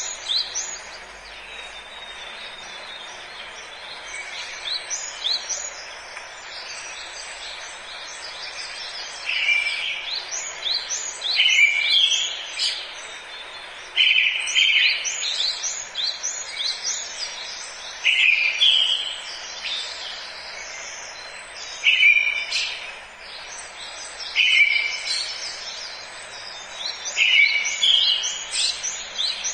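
Forest birdsong: several birds chirping and singing over a steady background hiss. A louder song phrase recurs every few seconds, mostly in the second part.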